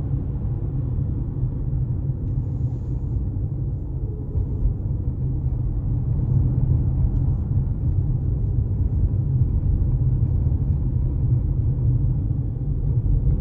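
Steady low rumble of car road and engine noise heard from inside the cabin while driving, getting a little louder about halfway through.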